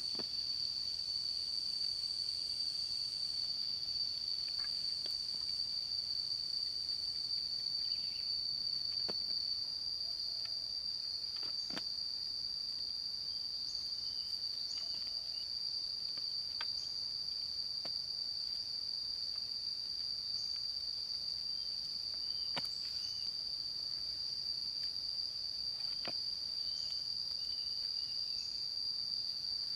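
Steady, high-pitched insect chorus of crickets or similar insects, with a few faint sharp clicks or taps scattered through it.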